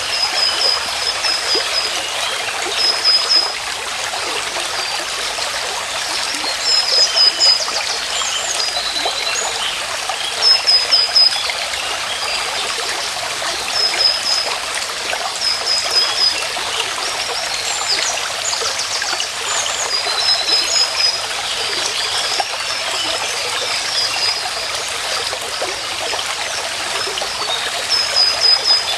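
A stream running steadily, with a bird repeating a short run of quick high chirps every few seconds.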